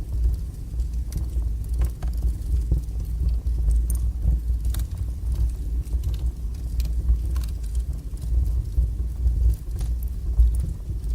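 Wood fire burning in a fireplace: a steady low rumble of strong flames with irregular sharp crackles and pops from the burning wood.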